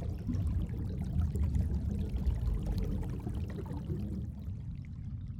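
Moving water: a steady low rushing with faint trickling.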